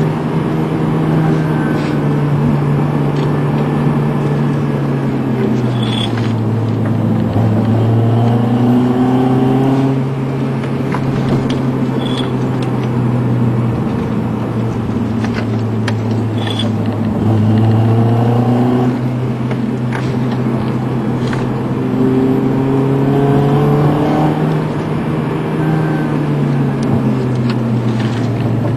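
Car engine and road noise heard from inside the cabin while cruising at moderate speed, the engine note rising and falling several times as the driver eases on and off the throttle.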